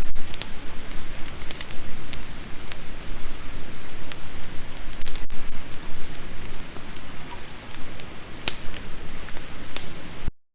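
Wood campfire burning: a steady hiss with sharp crackles and pops scattered through it, cutting off suddenly near the end.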